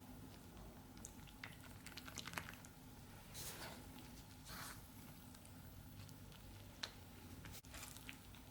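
Faint food-preparation handling: light scattered clicks and soft squishing, with two short swishes a little past the middle.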